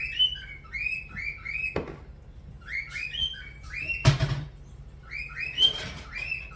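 A spoon or whisk stirring a dry flour-and-seasoning coating mix in a bowl, squeaking in quick runs of short chirps, with three sharp knocks against the bowl between the runs.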